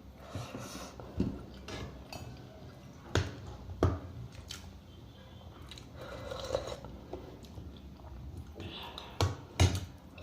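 Close-miked chewing of chicken soup with rice, wet and uneven, broken by four sharp clicks: one about three seconds in, one about four seconds in, and two close together near the end.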